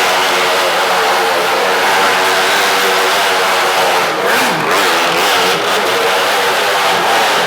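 Motorcycle engine running hard and without a break, its pitch wavering up and down slightly as the throttle is held open, with a brief dip and rise about four seconds in.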